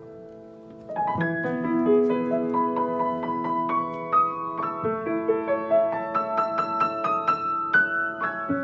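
Piano playing: a held chord fades away, then about a second in the playing resumes with sustained chords under a melody of single notes.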